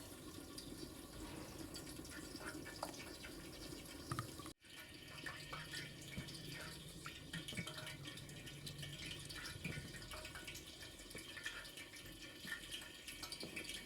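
Faint kitchen water sounds, with small scattered clinks of utensils and a brief drop-out of all sound about four and a half seconds in.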